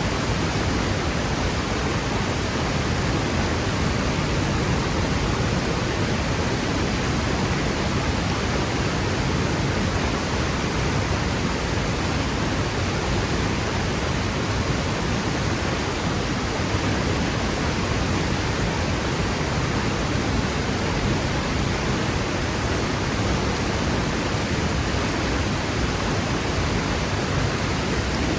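Waterfall crashing steadily into its pool: a dense, unbroken rush of water.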